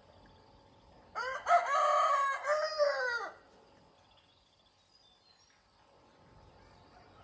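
A rooster crows once, a pitched call of about two seconds that begins about a second in.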